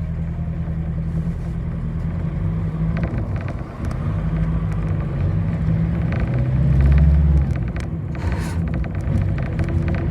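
Bus engine running under way: a low engine drone with tyre and road noise and scattered rattles, swelling louder for a moment about seven seconds in.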